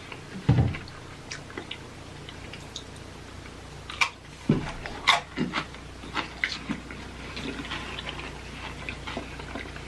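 Close-up eating sounds: crunchy cheese snacks being chewed, with scattered crackles, wet mouth clicks and a couple of dull thumps.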